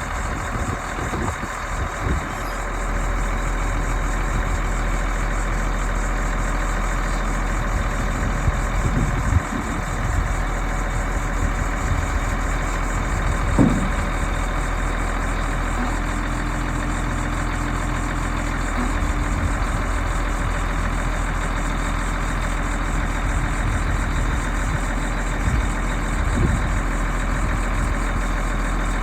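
The engine of a 1995 Ford L8000 dump truck idling steadily, with a few brief knocks along the way.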